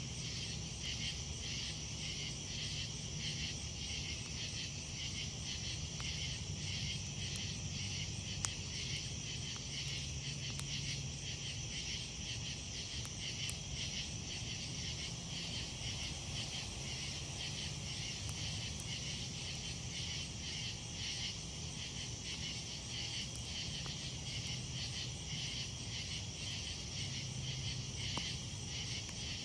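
A steady, pulsing chorus of night insects chirping, over the faint occasional crackle of a wood campfire, with one sharp pop about eight seconds in.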